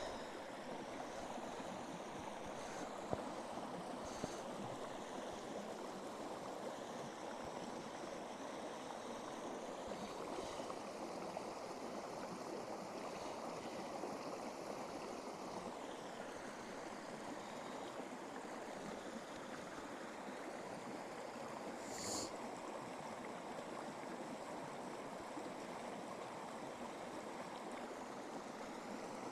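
Steady rush of running water, with a few faint clicks scattered through and one slightly louder click about 22 seconds in.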